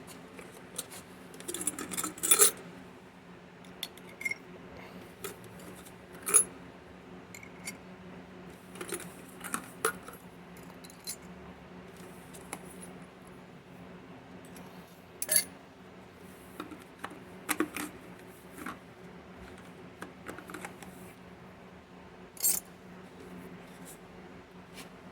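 Small pieces of sterling silver clinking against metal as they are handled, in scattered, irregular clinks with a short ring, a few of them sharper and louder, over a steady low hum.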